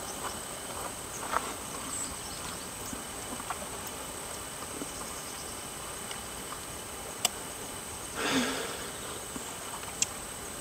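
Outdoor ambience of insects chirring in a steady high-pitched drone, with a few faint scattered clicks and a brief louder sound about eight seconds in.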